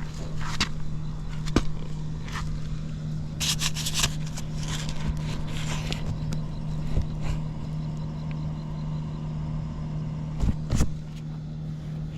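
Honda Squash scooter engine idling steadily with an even hum and no unusual engine noise, over scattered clicks and scrapes and two sharp knocks near the end.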